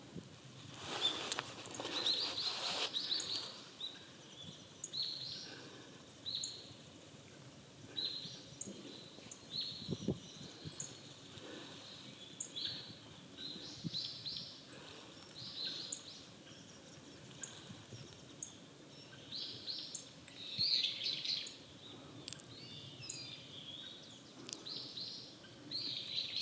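Rustic buntings giving short, sharp, high call notes, repeated irregularly, with a brief rustle about a second in.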